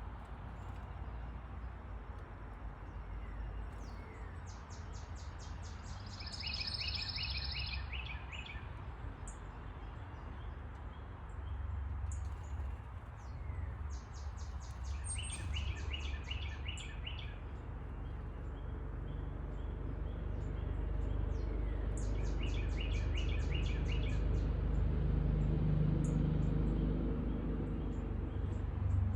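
A songbird sings the same short phrase three times, about eight seconds apart: a fast high trill with a stuttering run of notes beneath it. A steady low rumble runs underneath and grows louder toward the end.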